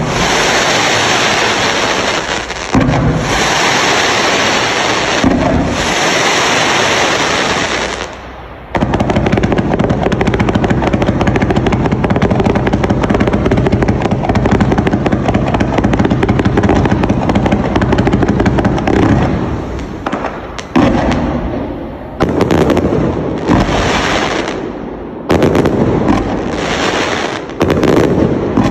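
Firework display cake firing continuously: dense bangs and crackle, a brief lull about eight seconds in, then a long stretch of rapid-fire shots, breaking into separate bursts with short gaps near the end.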